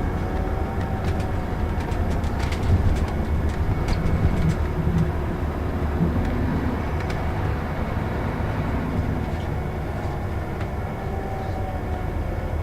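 Scania Citywide LE 14.6 tri-axle city bus with a ZF automatic gearbox running: a steady low engine and road rumble with a faint drifting whine, and light rattles and clicks in the first few seconds.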